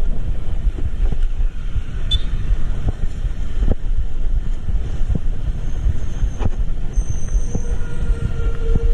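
Moving vehicle's road and wind noise: a loud, steady low rumble with irregular knocks, wind buffeting the microphone. A steady higher tone comes in near the end.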